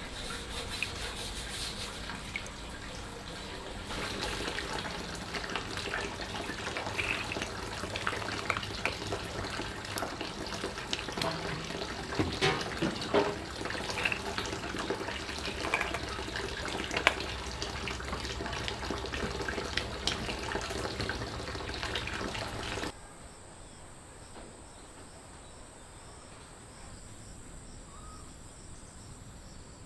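Water running and splashing at a tap, with small knocks and clinks of things being washed. About three-quarters of the way through it cuts to a quieter scene with a steady high insect chirring.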